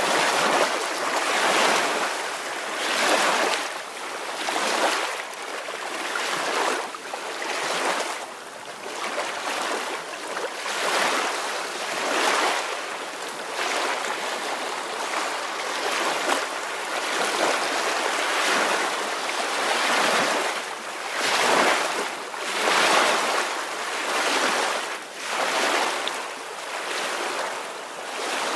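Small ocean waves washing onto a shore, a steady hiss of surf that swells and ebbs every second or two.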